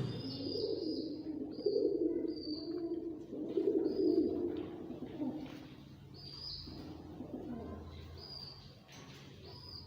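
Pigeons cooing in several low, rolling phrases, with short high chirps from small birds in between.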